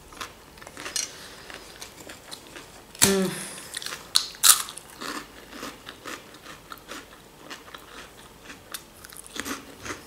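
Close-up mouth sounds of eating: wet chewing of a spoonful of mayonnaise salad, then a loud crisp bite into crispbread about four and a half seconds in, followed by crunchy chewing with small clicks. A short voiced "mm" from the eater comes about three seconds in.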